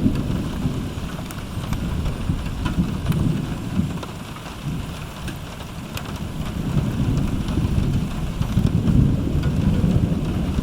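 Rain falling during a thunderstorm, with a low rolling rumble of thunder that eases off around the middle and builds again near the end.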